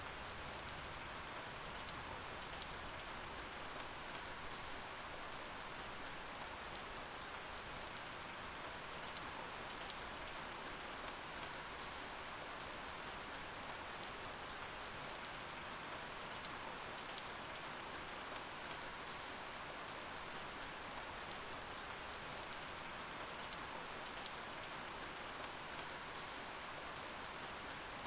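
Steady rain falling, an even patter with many small drop ticks and no let-up.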